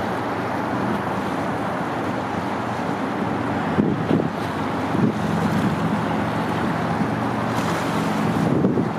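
Wind buffeting the microphone in gusts, about four and five seconds in and again near the end, over steady waterfront noise and a low, even engine hum.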